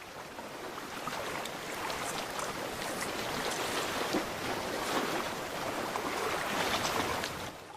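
Seawater washing against a rocky shore: a steady wash of noise that fades out near the end.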